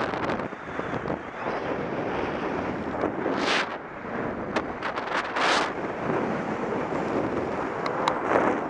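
Strong wind buffeting the microphone in a steady rush, with louder gusts about three and a half and five and a half seconds in and a few short sharp clicks.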